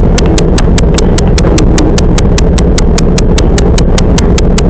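Steady low rumble of a Toyama Chiho Railway 10030 series electric train running, with a rapid, even ticking of about five clicks a second over it.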